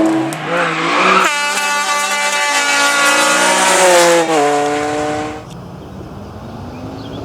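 Rally car engine at high revs as the car drives past on a stage. Its note drops about four seconds in, and the sound dies away a second later.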